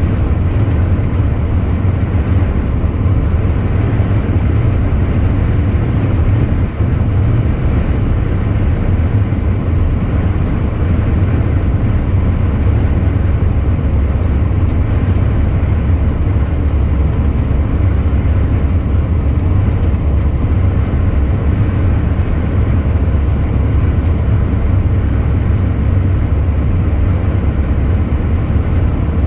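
Truck driving along, its engine and road noise making a steady low drone.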